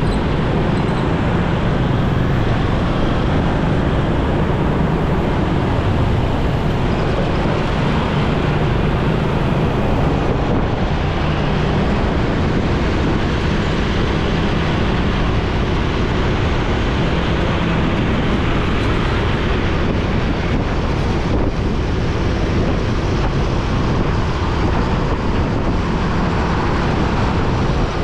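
Steady rush of wind over the microphone of a moving motorcycle, with its engine and the surrounding road traffic running underneath without letup.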